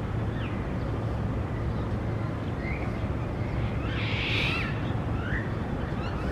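Birds calling in short chirps scattered throughout, with one louder call about four seconds in, over a steady low rumble.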